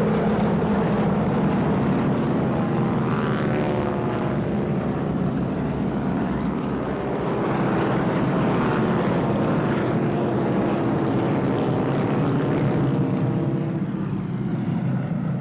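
A formation of North American T-6 Texan trainers (AT-6, SNJ and Harvard) flying past with their Pratt & Whitney R-1340 radial engines and propellers droning. The pitch sweeps up and down several times as successive planes pass.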